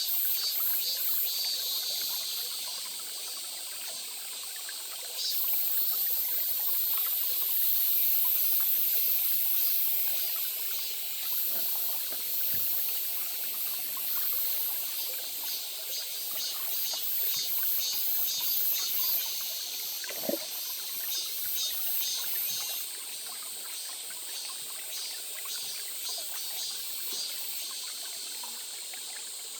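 Water trickling in a small stream, a steady high-pitched rush, with a faster pulsing high buzz over it that grows louder for several seconds in the first third.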